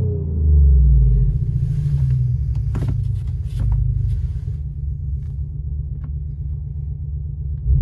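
Deep, steady exhaust drone of an Audi A5 Cabriolet with a JSR exhaust and an Active Sound Automotive 7.0 sound generator, heard inside the cabin while driving. It swells briefly about half a second in, with a few faint clicks between about two and four seconds in.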